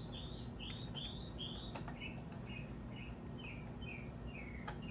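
A songbird singing a run of short chirping notes, about two a second, higher at first and dropping to a lower pitch from about two seconds in. A few faint sharp clicks sound over it.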